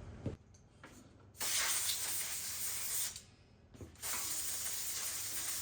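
Compressed-air blow gun on an air hose, fired in two bursts of about one and a half to two seconds each, blowing junk away from around the base of an engine part so it cannot fall inside.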